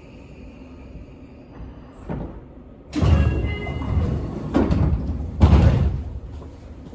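Pneumatic sliding passenger doors of a Seibu 6000 series electric train working at a station stop: a sudden clatter about three seconds in, then heavier thuds as the door leaves meet, the loudest a little over five seconds in.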